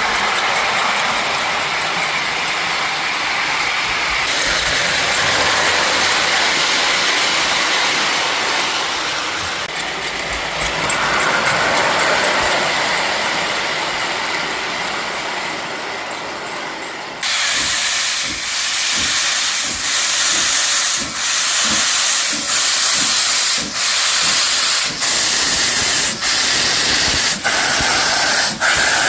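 Steam locomotive hissing steadily, then, about two-thirds of the way in, switching suddenly to exhaust chuffs at about one a second.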